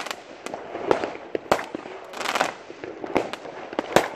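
Fireworks going off all around: a run of sharp bangs at irregular intervals, about two a second, with crackling between them as aerial bursts explode overhead.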